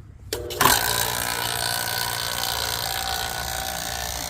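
Refrigerant vacuum pump switched on to pull a vacuum on a heat pump: a click, then the pump starts with a sudden jump in level and runs steadily.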